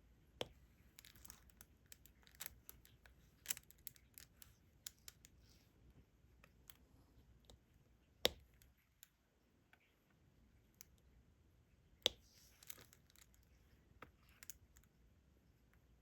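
Quiet, scattered small clicks and taps of a diamond painting pen picking up resin drills and pressing them onto the sticky canvas, with faint rustling between them; the sharpest clicks come about a third of the way in and about three quarters of the way in.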